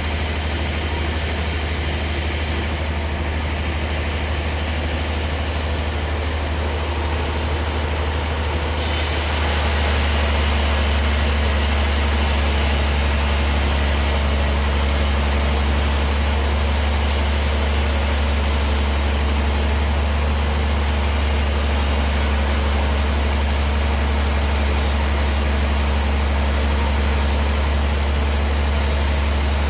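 Bandsaw sawmill running with a steady low hum. About nine seconds in it grows a little louder, with a brighter hiss, and stays that way.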